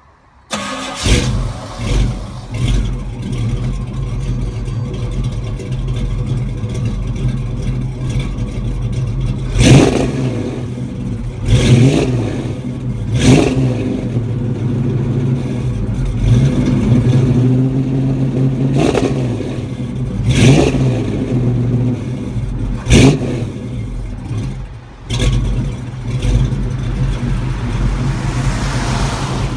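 1969 Chevrolet Camaro's exhaust through Flowmaster mufflers: the engine idles with a steady, deep note and is revved in short throttle blips over and over, with one longer held rev partway through.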